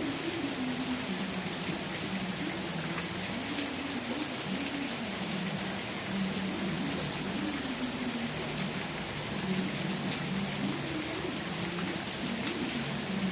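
Steady rain falling and pattering on surfaces, an even hiss with occasional drop ticks. A low tone wavers up and down beneath it.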